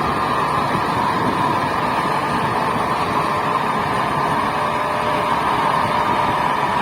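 Kirovets K-700 tractor's turbocharged YaMZ-238 V8 diesel engine running steadily.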